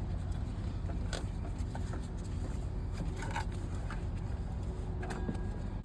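Fan belt being worked onto a truck engine's pulleys by hand: a few short scrapes and clicks over a steady low rumble.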